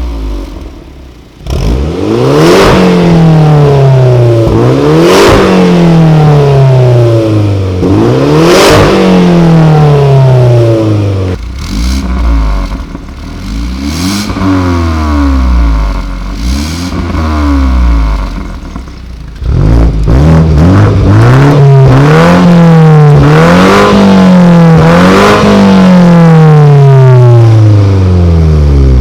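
BMW 330i engine revved repeatedly through a custom dual variable exhaust, the pitch rising and falling with each rev. A quieter run of smaller revs in the middle is followed by a sudden return to full loudness and a series of quick revs.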